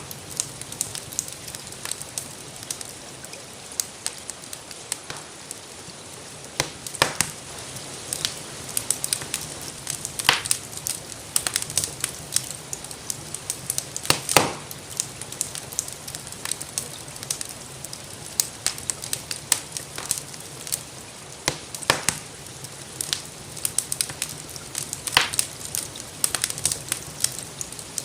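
Wood fire crackling with irregular sharp pops, a few of them louder, over a steady hiss of gentle rain.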